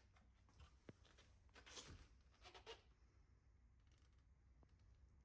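Near silence: faint room tone, with a couple of soft brief rustles about two seconds in.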